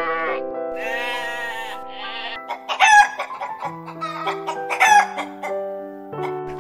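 A sheep bleating twice in the first two seconds, then chickens giving two loud, short calls about two seconds apart, over background music with held notes.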